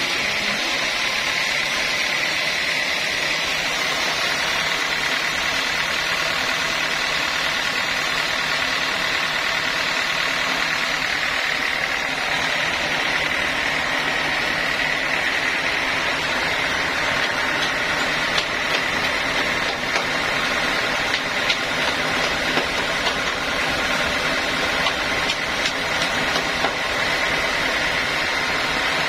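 Sawmill saw running steadily with a constant high whine. In the second half it is joined by a scatter of small knocks and clicks.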